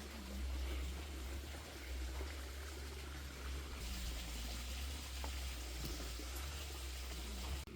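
River water running steadily, with a low rumble underneath and a few faint clicks. The sound changes abruptly near the end.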